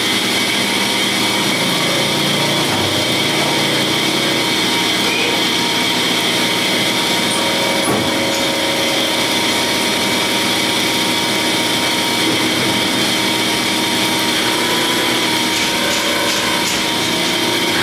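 Machine tools in a piston factory running steadily: a loud, even machining noise with several held whining tones, and a faint rapid ticking near the end.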